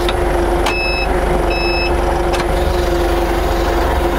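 Forklift running with a steady hum, its reversing alarm giving two short beeps about a second in, and a couple of sharp knocks.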